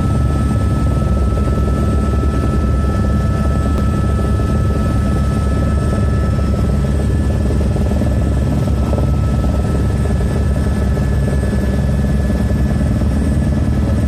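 Medical helicopter running with a loud, steady rotor rumble and a thin steady whine above it.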